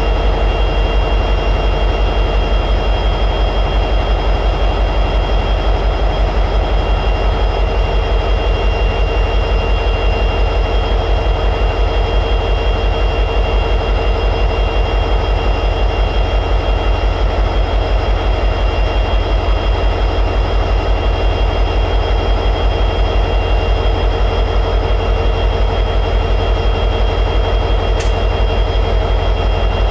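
EMD 710G3B two-stroke diesel prime mover of an SD60E locomotive running steadily at high idle: a dense, rapid low pulsing with a steady high whine on top. A faint click near the end.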